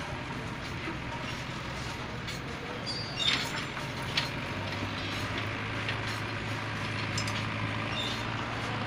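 Steady low rumble and hum of a freight train on the railway track above, with a couple of sharp clicks about three and four seconds in.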